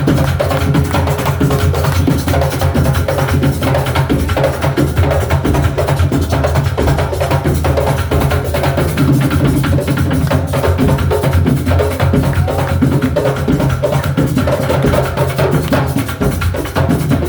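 A drum ensemble playing a loud, dense, unbroken rhythm of rapid strikes over deep bass drums.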